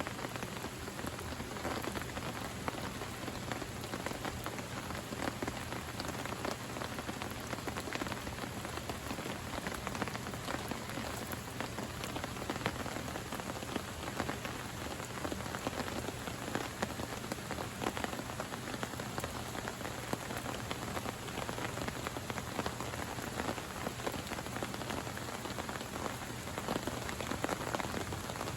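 Steady rain falling, with many separate drop hits close by over an even hiss.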